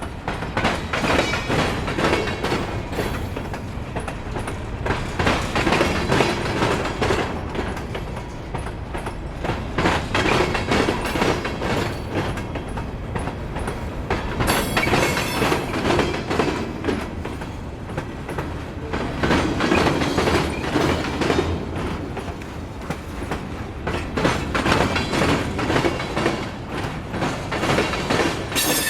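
Escanaba & Lake Superior freight train rolling by, its steel wheels clicking and clattering over the rail joints in a steady rhythm.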